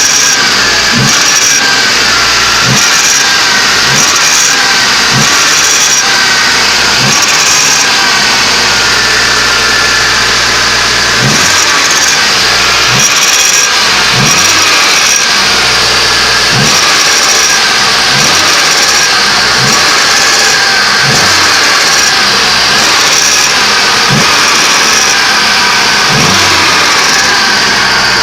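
GAZ-31105 Volga's ZMZ-406 four-cylinder engine running cold, revved in short repeated throttle blips about every second and a half, with a pause of a few seconds about a third of the way in. The owner is chasing an extraneous noise that appears as the throttle is released, cannot be heard from the cabin and is absent under load.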